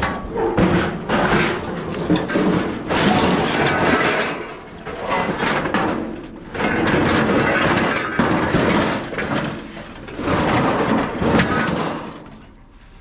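Loud, irregular clattering and scraping of metal being handled and shifted, dying down near the end.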